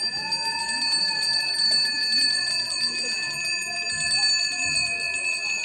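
Balinese priest's hand bell (genta) rung continuously, a steady shimmering high ring that does not stop. A wavering lower tone is held beneath it.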